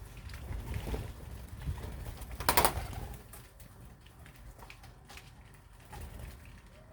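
Pigeons cooing, with a short, loud burst of noise about two and a half seconds in.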